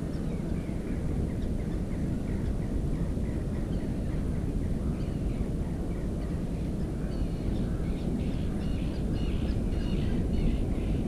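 Steady low rushing noise on the microphone, with faint short high bird calls repeated over it that grow louder and come faster from about two-thirds of the way in.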